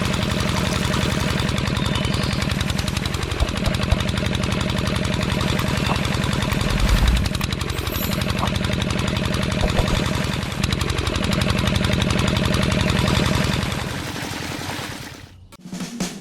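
Small engine of a home-built mini water pump running steadily with a rapid knocking beat. It dies away about fourteen seconds in, and music starts at the very end.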